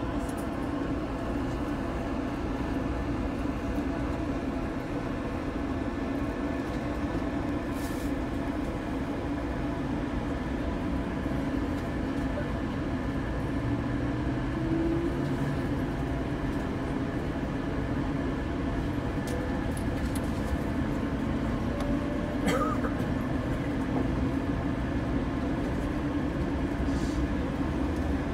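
Running sound of a 185 series electric train heard from inside the carriage as it pulls away from a station and gathers speed: a steady rumble of motors and wheels on rails, with a faint whine rising in pitch partway through and a few sharp clicks.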